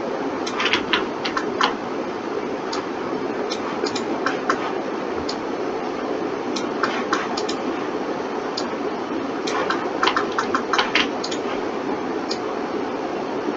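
Irregular clicks of a computer mouse and keyboard, some single and some in quick clusters, over a steady hiss of computer fan noise.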